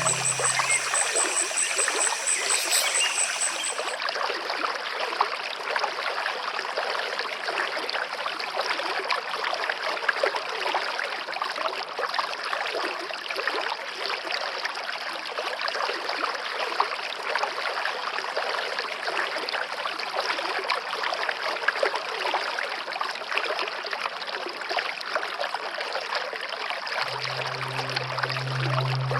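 Creek water babbling and trickling over stones, a steady rushing flow. Soft low sustained music fades out about a second in and comes back near the end.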